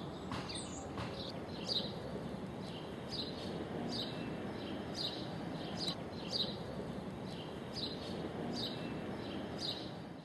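A small bird chirping over and over, short high notes about once a second, over steady outdoor background noise.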